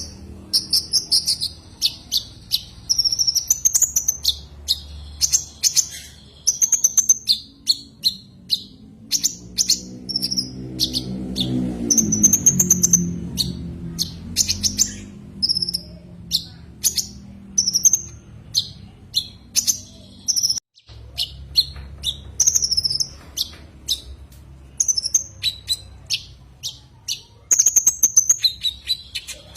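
Konin (kolibri ninja), a small sunbird, giving rapid high-pitched chirps and short trills over and over, a call used as a lure to provoke rival birds. A low hum swells and fades near the middle.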